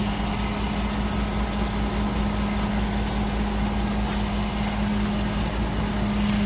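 Heavy truck diesel engine running at a steady speed, a constant drone with a low hum.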